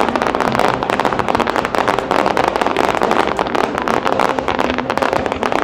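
Fireworks going off in a dense, rapid barrage of many sharp crackling bangs, several every second, with no break.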